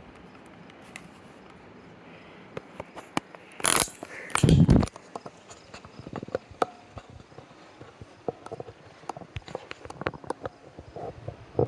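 Footsteps and scrapes on rock, an uneven run of short knocks, with two loud bumps about four and four and a half seconds in, over a faint steady hiss.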